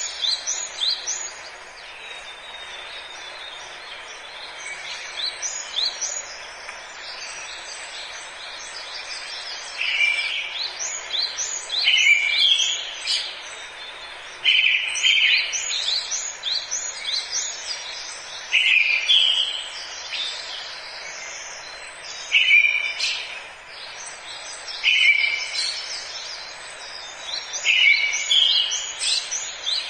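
Forest birdsong: several birds chirping and singing, one repeating a loud short phrase every few seconds, over a steady background hiss.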